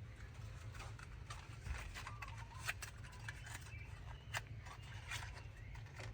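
Irregular light clicks and taps of hand tools being handled on metal, with two sharper clinks a little under three and about four and a half seconds in, over a steady low hum.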